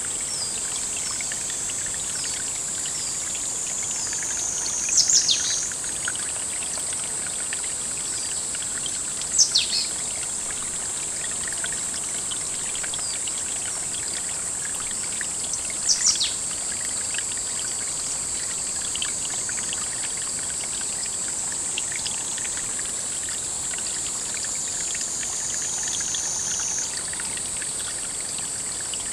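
Pond-side ambience: water trickling steadily under a constant high-pitched insect drone, with a loud, sharp, falling bird call about 5 s in, again near 9 s and once more around 16 s.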